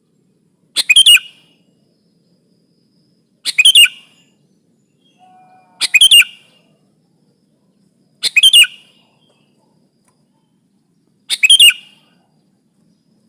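Sooty-headed bulbul (kutilang) giving a short, loud chirping call five times, about every two and a half seconds, with silence in between.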